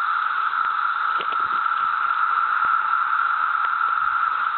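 Chorus of cicadas: a steady, unbroken droning at one pitch, with a few faint clicks underneath.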